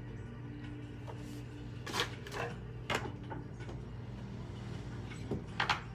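A steady low background drone with a few short sharp knocks and rustles of handling, about two, three and five and a half seconds in.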